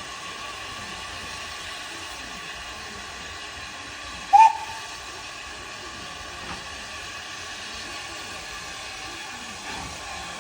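LSWR T3 steam locomotive giving one short, loud toot on its whistle about four seconds in, the pitch sliding up briefly as it sounds. Under it is a steady hiss of steam.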